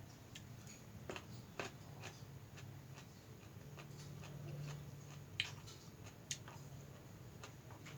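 Close-up eating sounds of someone eating mixed noodles: faint, scattered mouth clicks, lip smacks and chewing noises over a low steady hum.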